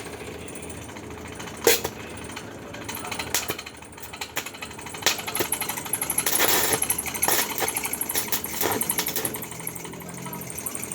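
Arc welding on a steel foundation bolt: a few separate sharp clicks, then, from about halfway, a rapid irregular crackle over a steady high whine.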